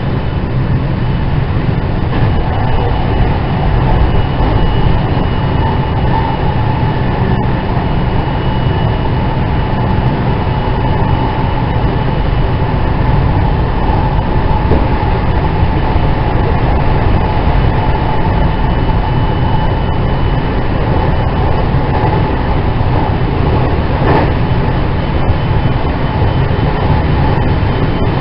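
JR West 207 series 2000-subseries electric train with IGBT VVVF inverter, heard from inside its motor car running at a steady pace: a continuous low rumble of wheels on rail with a faint steady whine above it.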